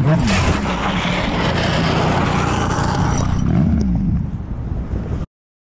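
Yamaha MT-09 motorcycle ridden at speed: a loud rush of wind and road noise over the inline-three engine, with short rises and falls in engine pitch. The sound cuts off abruptly near the end.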